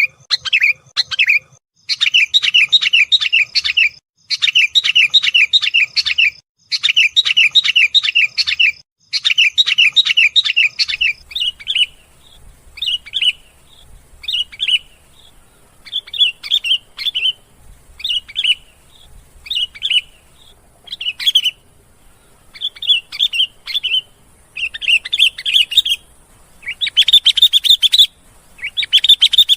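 Sooty-headed bulbul (kutilang) calling loudly in rapid chattering runs of about two seconds each. Past the middle these break into shorter separate phrases, and fast runs return near the end.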